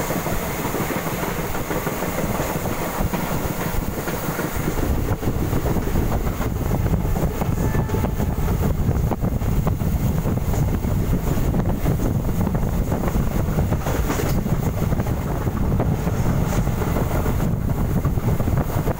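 Passenger train running along the track, heard from aboard a carriage at an open window: a steady rumble of wheels on rails with clickety-clack from the rail joints. The low rumble grows heavier about five seconds in.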